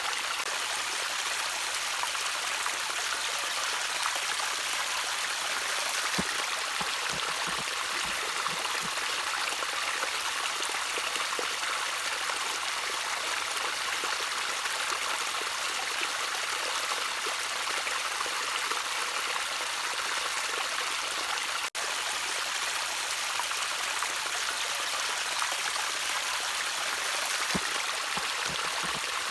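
Small stream of water trickling steadily, with a few low plinks and gurgles now and then. The sound cuts out for an instant about three-quarters of the way through.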